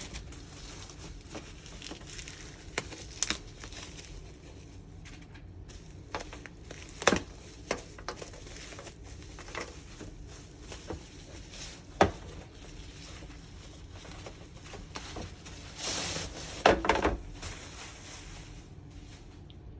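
Diorama parts and their packaging being unpacked by hand: scattered clicks and knocks with some rustling. There is a louder knock about twelve seconds in and a burst of handling near the end.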